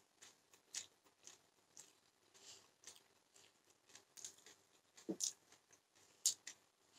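A person chewing a mouthful of noodles: faint, irregular wet smacks and clicks of the mouth, with a sharper click a little after six seconds in.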